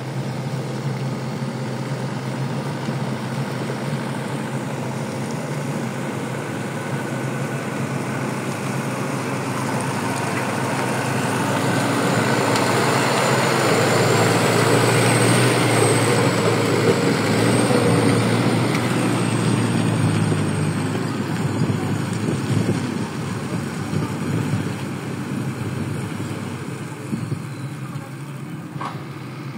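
A motor vehicle's engine running steadily. It grows louder toward the middle and then fades, with a faint high whine that wavers in pitch near the loudest part.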